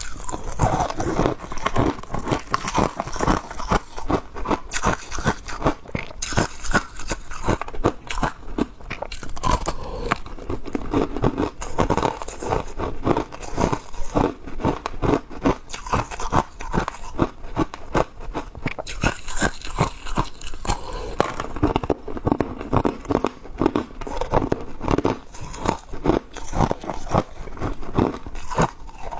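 Ice being bitten and chewed close to the microphone: a continuous, rapid run of sharp crunches.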